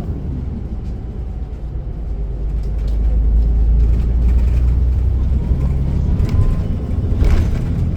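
Transit bus running, heard from inside the cabin: a steady low engine and road rumble that grows louder about three seconds in, with a brief knock near the end.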